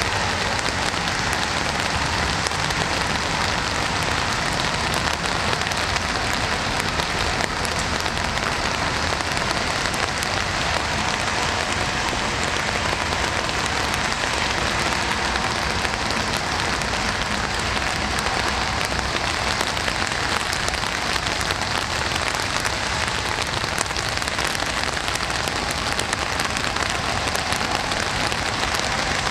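Steady rain falling and pattering on a surface, a dense even hiss of many small drop ticks.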